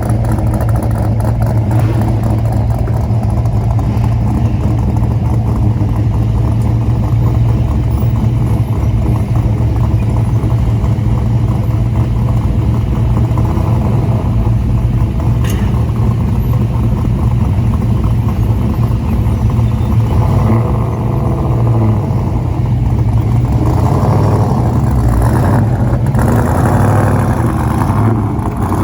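Car engine running with a steady low rumble. In the last several seconds the sound changes and grows fuller.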